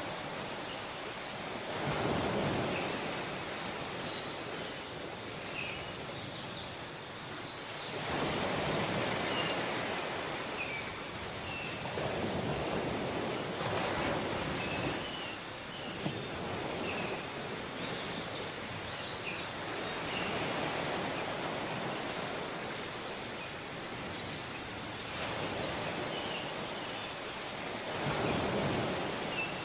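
Waves washing onto a tropical beach, swelling and falling back every few seconds, with faint, short bird chirps above the surf.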